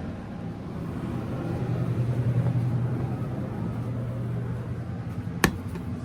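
A vehicle engine running with a steady low hum that swells for a few seconds, and one sharp click near the end.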